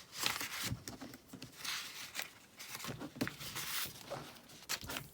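Paper handling: planner pages rustling and being flipped, with a string of short swishes and soft taps.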